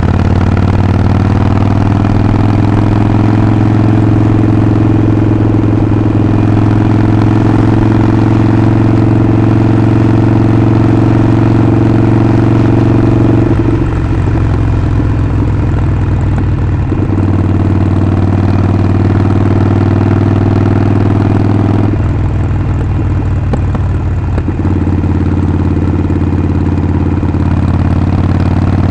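Harley-Davidson Sportster Forty-Eight's 1200 cc air-cooled V-twin running under way, its exhaust note rising slightly at first and then holding steady. The steady note breaks up twice for a few seconds, about halfway through and again about three-quarters of the way through, before settling back.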